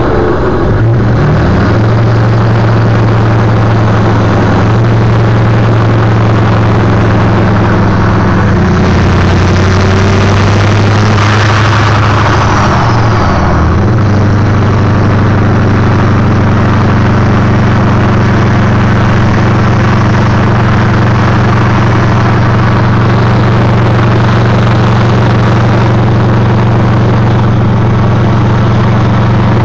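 Ford 6.4 L Power Stroke twin-turbo diesel V8 running steadily near idle with turbo whistle. Its note rises and changes briefly about a third of the way in, with a high whine falling away, then settles back to a steady idle.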